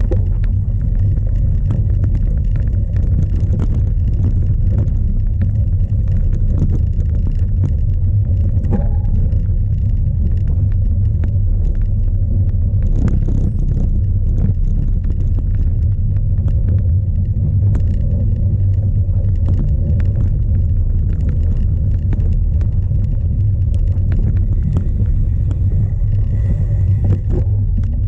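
Strong wind buffeting an onboard camera's microphone on a cyclocross bike as it is ridden, a steady loud rumble, with many small clicks and rattles from the bike over rough ground.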